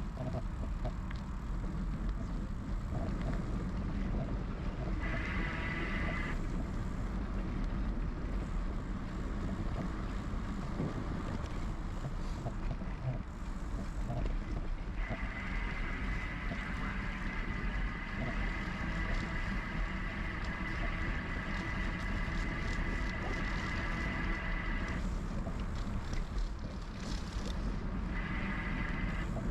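Riding noise of a GoCycle GX electric bike: a steady rumble of tyres and wind on the microphone, with the e-bike's motor whine cutting in briefly about five seconds in, running for about ten seconds through the middle, and returning briefly near the end.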